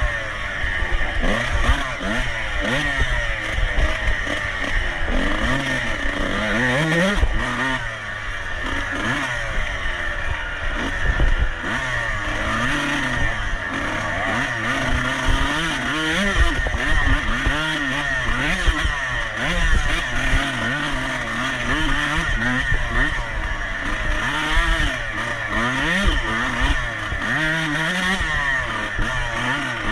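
Off-road racing motorcycle engine at full effort, its pitch repeatedly climbing and falling every second or two as the throttle is opened and closed.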